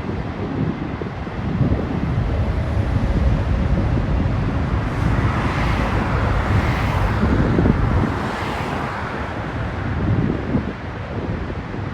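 Intermodal freight cars rolling past on the rails, with heavy wind noise on the microphone. The rolling rush grows brighter and louder about five seconds in and eases off after about nine seconds.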